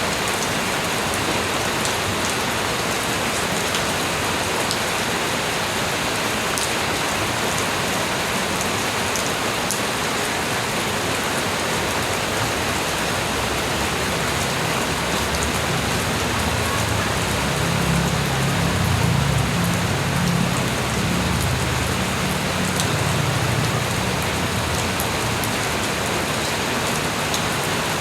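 Light rain falling steadily: an even hiss with scattered sharp drips. In the middle, a low rumble swells for several seconds and then fades.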